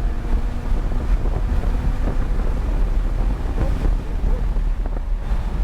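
Lamborghini Huracán's V10 engine and road noise while the car is under way, heard from inside the cabin, with a heavy low rumble and wind buffeting on the microphone.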